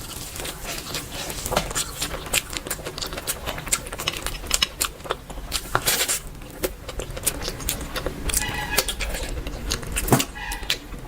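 Close-miked eating sounds: a dense run of wet clicks, smacks and crackles from chewing food. A short pitched sound breaks in about eight and a half seconds in.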